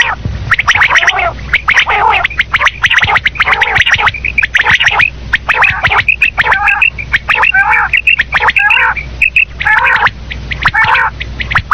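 Common quail calling over and over in loud, dense runs of short, quick notes. This is a quail-call recording of the kind played to lure quail for hunting.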